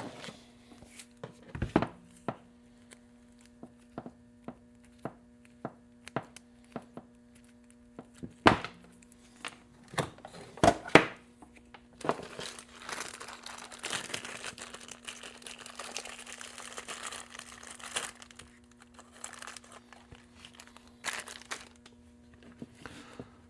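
Small parts and tools being handled at a workbench: scattered light clicks and knocks, a few louder knocks around the middle, then several seconds of crinkling and rustling like plastic packaging being handled.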